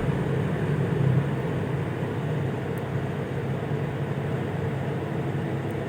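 Steady, even drone of a car's engine and road noise heard from inside the moving vehicle.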